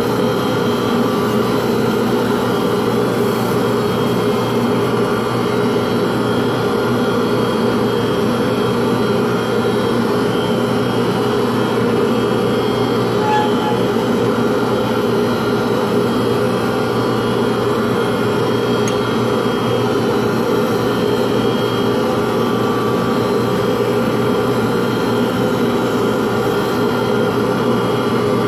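Electric motor of a workshop machine running steadily at constant speed, a loud, even hum.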